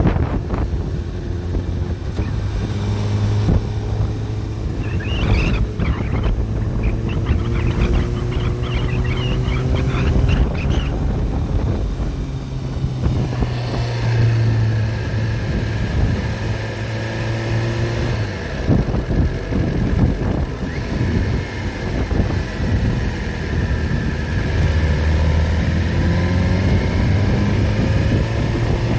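Backhoe engine running steadily, its pitch rising and falling as it works. A high chattering squeak comes through for several seconds in the first half.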